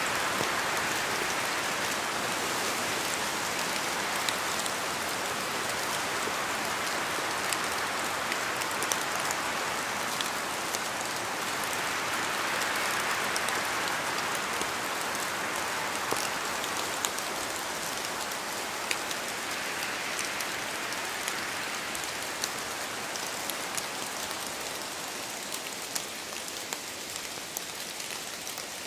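Steady rain falling on a surface: a dense even hiss with scattered sharp drop ticks, gently swelling and easing in intensity.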